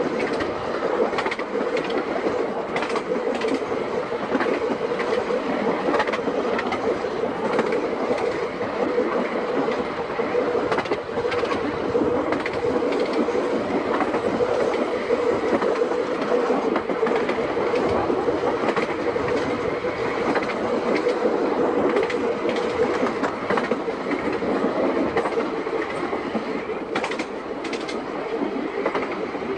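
Seaton Tramway narrow-gauge electric tram running along the track. A steady motor whine fades out about 23 seconds in, with occasional clicks from the wheels on rail joints.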